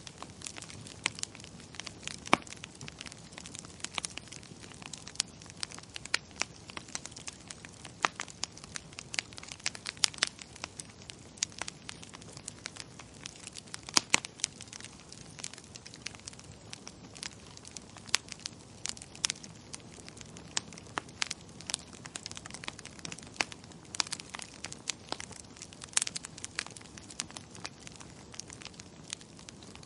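Fireplace fire crackling: irregular sharp pops and snaps, several a second and varying in loudness, over a soft steady hiss.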